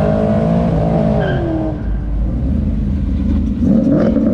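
Performance car engine being revved loudly, thought to have an aftermarket cam. The pitch rises and falls about a second in, drops to a lower rumble, then climbs again near the end.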